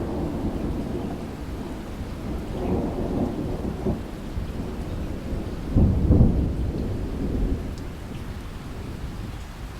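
Thunder rumbling through a steady rainstorm, with its loudest peal about six seconds in. The rumble dies away near the end, leaving the hiss of the rain.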